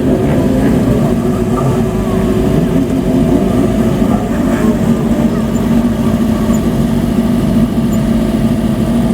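Motorcycle engines running steadily at low revs, a constant exhaust drone.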